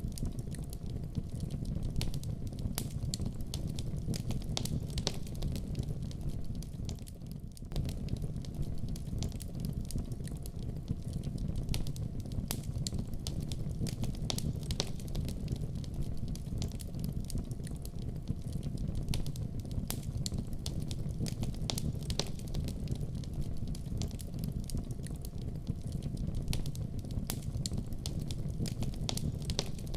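Wood fire burning in a fireplace: a steady low rumble of flames with frequent sharp crackles and pops, easing briefly about seven seconds in.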